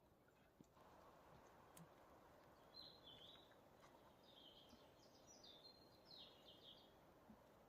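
Faint birdsong: a few short, quick chirping phrases from a small bird over a low steady hiss.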